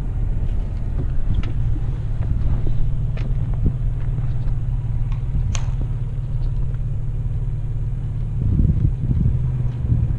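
Vehicle engine idling with a steady low hum, with a few faint ticks and knocks over it and the hum swelling slightly near the end.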